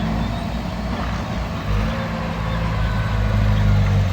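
Heavy diesel machinery engine running steadily, a low pitched drone whose note shifts slightly about two seconds in.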